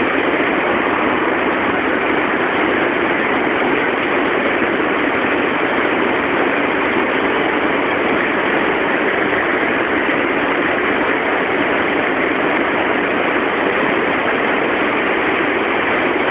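Steady, unchanging noise from stationary Shinkansen trains (the E3-series Komachi coupled to a Hayate) standing at the platform, their onboard equipment running. There are no horn, door or coupling sounds.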